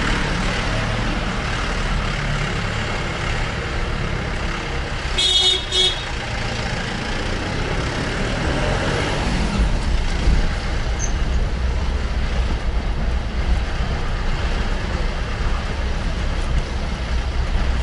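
Street traffic noise with wind buffeting the microphone, and a vehicle horn tooting twice in quick succession about five seconds in.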